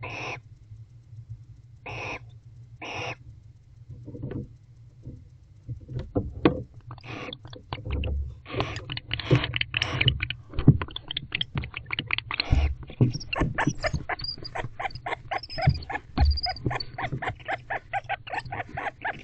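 Barn owls calling in a nest box: three short hissing screeches in the first three seconds, then, from about six seconds in, a fast and dense run of chittering clicks and high twittering that builds and carries on, with a few low thumps. It is the calling of a bonded pair during courtship and mating.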